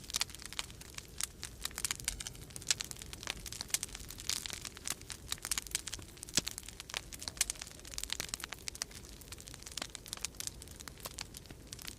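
Wood fire crackling in a fireplace: a dense, irregular run of sharp pops and snaps. A steady low rumble of storm wind runs beneath it.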